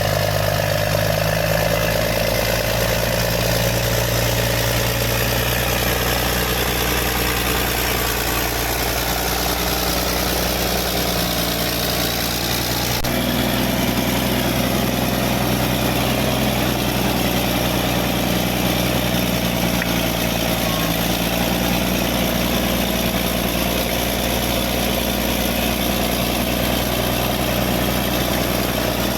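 Diesel engine of a Caterpillar D6D bulldozer running steadily, with a shift in its tone about halfway through.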